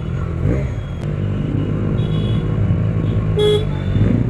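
Benelli TNT 300 parallel-twin engine with an aftermarket exhaust running steadily while riding. A short horn beep sounds about three and a half seconds in.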